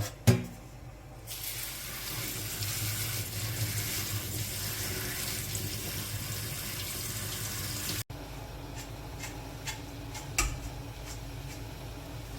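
Kitchen tap water running for several seconds after a sharp knock, then cutting off abruptly; a few light clicks and a knock follow.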